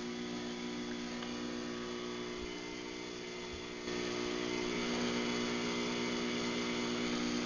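Craftsman garage door opener's motor running steadily as it closes the door on a remote command, a droning hum that gets louder about four seconds in.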